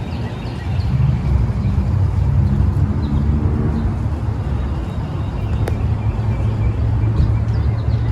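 A motor vehicle running nearby: a steady low engine rumble, with a faint rising engine tone about three to four seconds in.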